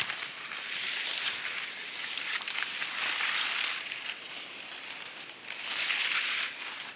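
Rustling and crackling noise in irregular bursts about a second long, three of them, over a faint steady high hiss.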